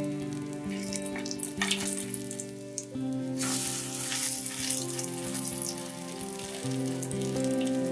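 Egg-coated meat patties (yukjeon) sizzling in shallow oil in a frying pan, with scattered crackles. About three and a half seconds in, the sizzle surges much louder for a second or two as a patty is flipped over with a spatula.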